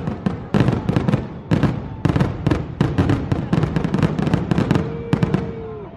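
Aerial fireworks bursting in quick succession, several sharp bangs a second, with a crackling rumble between them.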